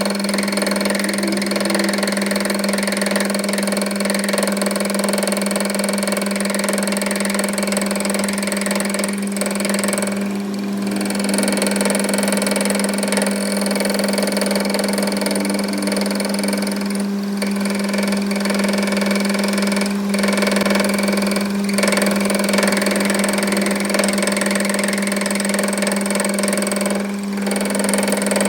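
A machine motor running steadily with a constant hum, dipping briefly a few times.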